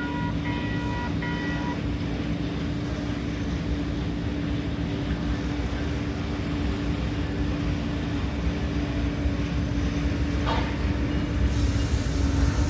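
Metra commuter train running with a steady engine hum, while a pulsing ringing tone stops about two seconds in. Wheel and rail noise rises sharply near the end as the train comes closer.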